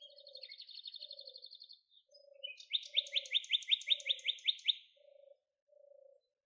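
Bird chirping: a fast high trill, then a louder run of about ten quick, falling chirps near the middle.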